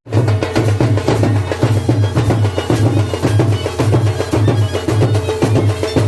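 Traditional folk music driven by fast, dense drumming over a steady pulsing low beat.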